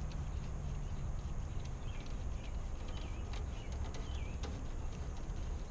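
Scattered light clicks and ticks, with a few short chirps in the middle, over a steady low rumble.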